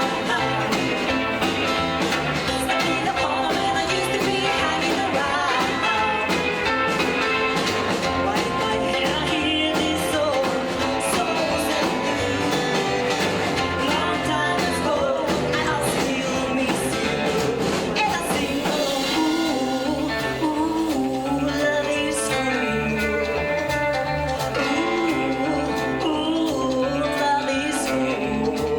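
Rockabilly band playing live with electric guitar, bass and drums keeping a steady beat, and a voice singing over it.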